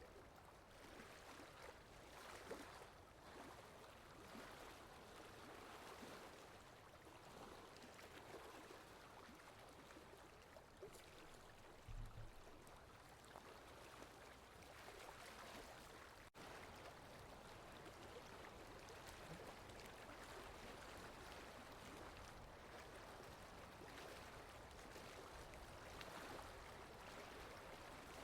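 Faint, steady rain-in-the-forest ambience: an even wash of falling rain and running water. There is a soft low thump about halfway through.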